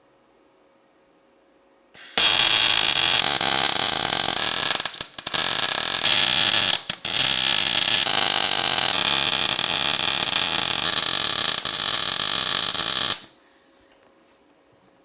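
Welding arc running in one long bead of about eleven seconds, starting and stopping abruptly, with two brief breaks in the middle.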